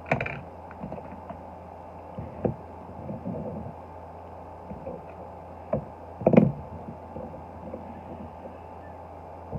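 Diecast toy cars being handled and picked from their carry case: scattered clicks and knocks, the loudest a little past the middle. A steady low hum runs underneath.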